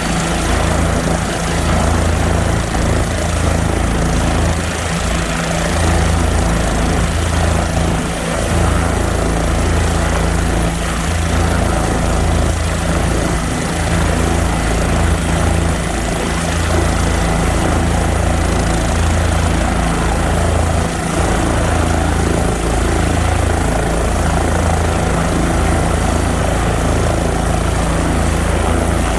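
The engine of the Minnesota State Patrol aircraft N119SP running steadily on the ground: a constant low drone with a thin high whine over it, without any rise or fall.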